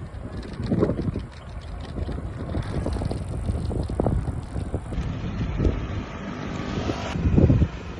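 Wind buffeting the microphone of a moving bike, in uneven low gusts over road and vehicle noise.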